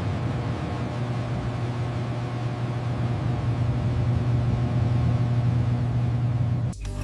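A steady low machine hum under an even hiss, which cuts off abruptly near the end.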